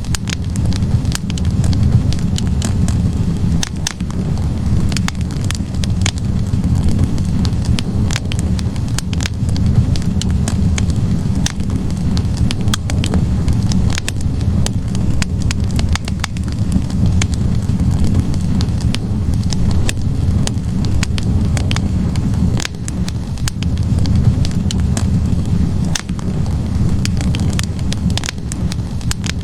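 Wood fire burning in a fireplace: a steady low rumble of flames with many sharp crackles and pops from the burning logs, coming irregularly.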